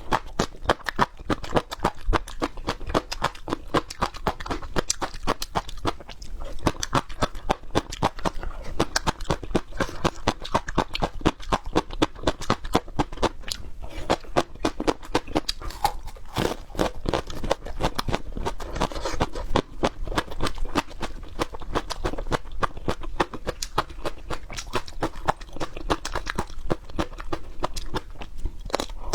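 A person biting and chewing raw peppers: crisp crunches, several a second, in an unbroken run.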